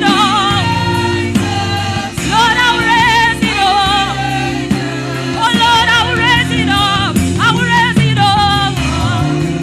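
Gospel music: voices singing with heavy vibrato over sustained accompaniment.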